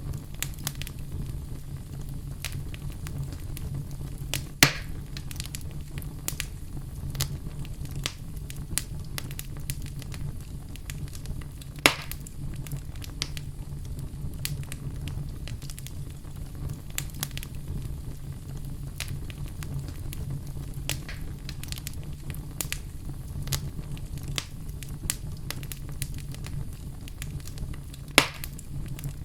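Fire burning in a fireplace, with a steady low rumble and constant small crackles. Three louder pops stand out: one about 5 seconds in, one about 12 seconds in and one near the end.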